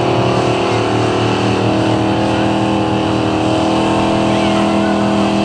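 Gas-engine street pulling truck running at high, held revs under load, a steady loud engine note with small rises and dips in pitch, typical of a truck dragging the weight sled down the track.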